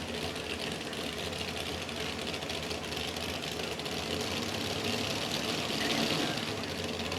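A pulling tractor's engine idling steadily between runs, getting a little louder about six seconds in.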